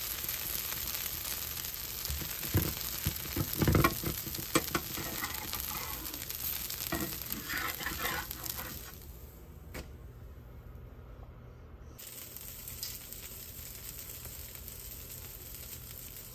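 A dosa frying and sizzling on an iron tawa, with a few scrapes and taps of a metal spatula in the first half. The sizzle is quieter in the last part.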